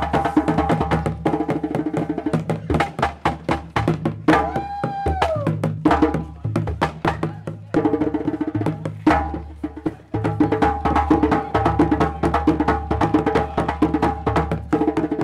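Traditional Malian drumming with fast, dense hand-drum strikes over a melodic instrument holding steady pitches. A short gliding vocal cry rises and falls about four to five seconds in.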